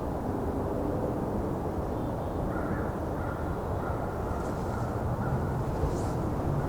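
Steady low rumble of urban background noise, with crows cawing faintly in the distance.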